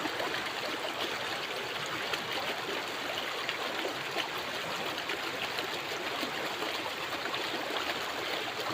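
A clear, rocky river flowing over stones: a steady, even rush and babble of running water.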